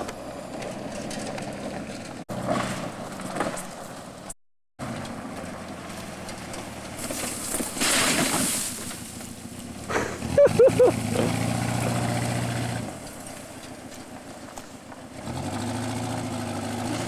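1985 Pontiac 6000 engine running and revving as the car is driven over mud and gravel, with the engine note rising and falling. About two-thirds of the way through come three short, loud high-pitched tones, the loudest sounds here. There is a brief gap of silence near the start.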